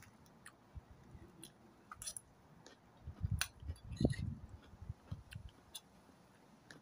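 A person chewing food, with scattered light clicks and clinks of a fork and spoon against a plate.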